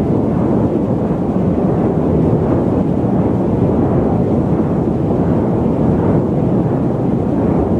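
Loud, steady static noise: an even, dull rushing hiss weighted toward the low end, with little treble.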